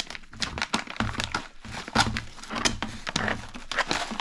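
Foil Mountain House dehydrated-meal pouch being opened and handled, crinkling and rustling in quick irregular bursts.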